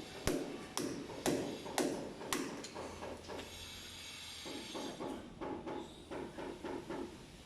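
Hand-tool work: sharp knocks about twice a second, which stop about three seconds in. From about halfway on comes a faster rasping back-and-forth stroke, about four a second.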